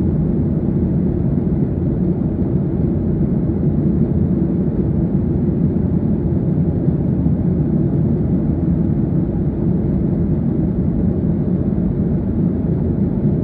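Airliner cabin noise: the steady drone of the jet engines and rushing air, heard from inside the cabin in flight.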